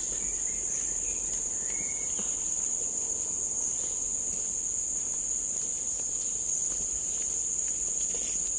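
Steady, high-pitched drone of a tropical forest insect chorus, with a few faint chirps in the first two seconds.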